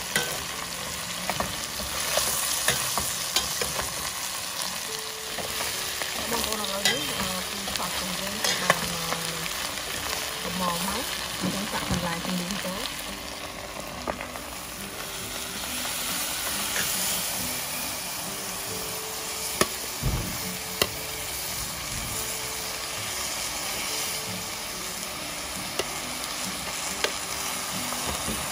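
Pieces of meat and fish sizzling in oil in a stainless steel pot, stirred with a metal ladle that clicks and scrapes against the pot. About halfway through, chopped greens are tipped into the pot and stirred in.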